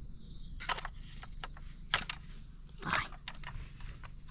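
Scattered light clicks and knocks of small plastic toys being handled and set down, the strongest about a second in, two seconds in and three seconds in.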